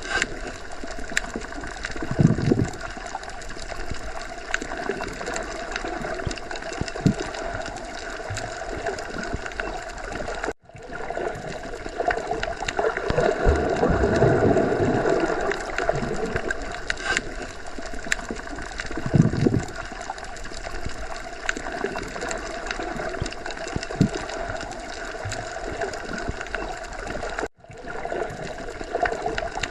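Underwater ambience: a steady muffled wash of water with occasional low gurgling surges. The sound cuts out briefly twice, about ten and twenty-seven seconds in.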